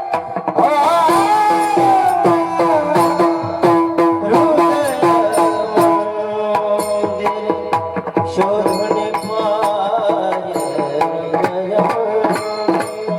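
Marathi kirtan music: a singing voice glides over held steady tones in the first few seconds, with quick hand-drum strokes throughout.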